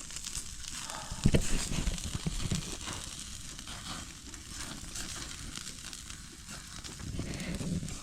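Meat sizzling on a grill over a wood fire, with the fire crackling steadily. There are a few dull thumps a little over a second in.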